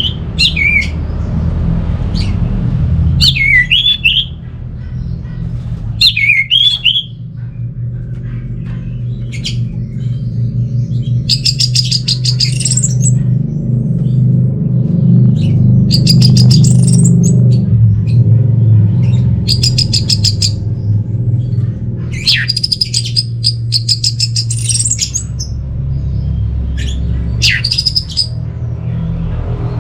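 Orange-headed thrush singing. It gives short down-slurred whistles three times in the first seven seconds, then rapid high trilled phrases every few seconds, all over a steady low hum.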